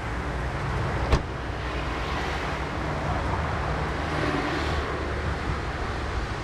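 Street noise with low wind rumble on the microphone, and one sharp knock about a second in, a car door being shut.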